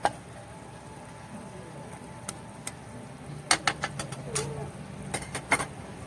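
A series of sharp clicks and knocks over a steady low background hum: one right at the start, then a quick cluster about three and a half seconds in and another near the end.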